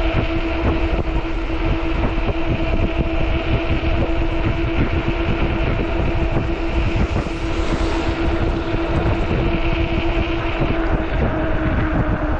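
Steady whine of a 48 V e-bike hub motor running at an even speed under heavy wind buffeting on the microphone, with a vehicle rushing past about seven to eight seconds in.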